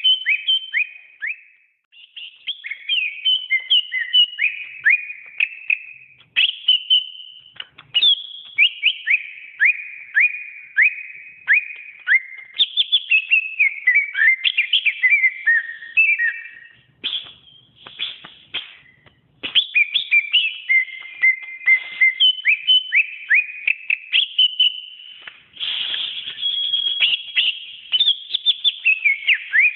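Greater green leafbird (cucak ijo) singing a long, varied song of fast, sharp whistled notes and chirps in rapid runs. The song breaks off briefly about 2 s in, near 6 s, and again for a moment around 17 to 19 s.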